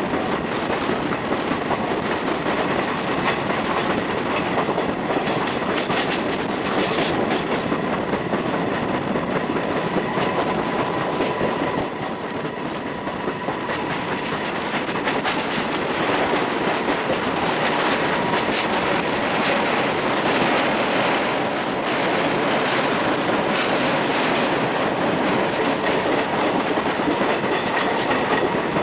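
Express train coaches running along the track, heard from on board: a steady rumble of wheels on rails with scattered irregular clicks over rail joints and a faint steady high whine through much of it.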